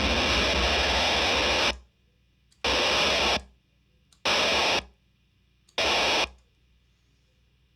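Delay pedal with its feedback turned all the way up, feeding back on itself through the guitar amp into a loud, static-like noisy wash. The wash fades out under two seconds in, then three short bursts of the same noise follow about a second and a half apart, each trailing off.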